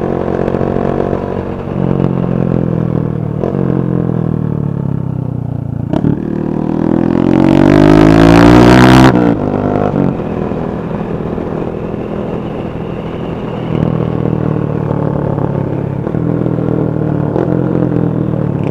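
Several motorcycle engines running and revving as a procession of bikes passes, their pitches rising and falling. One loud rising rev swells about six seconds in and cuts off sharply about nine seconds in.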